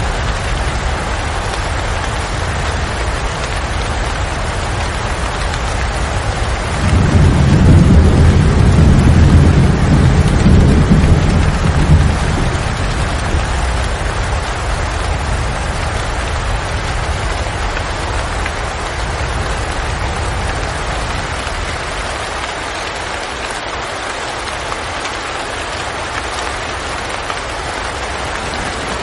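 Steady rain falling, with a low rumble of thunder rising about seven seconds in, lasting around five seconds, then fading back under the rain.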